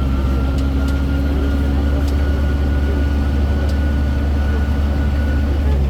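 Tourist road train's engine running steadily, heard from aboard, a deep hum with a thin whine above it and scattered light clicks and rattles.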